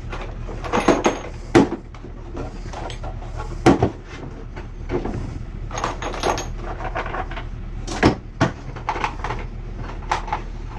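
Hand tools and metal parts being handled and set down: about a dozen irregular knocks and clinks, some with a short ring.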